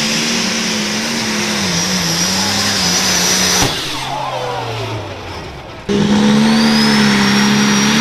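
Pulling tractor's engine running hard at high, steady revs with a high whine above it. It cuts off abruptly about three and a half seconds in, and after a quieter stretch the engine sound cuts back in suddenly about six seconds in.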